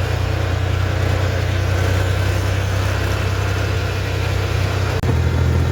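Tractor engine running steadily with a low, even hum. Near the end there is a short click, and the engine note gets slightly louder.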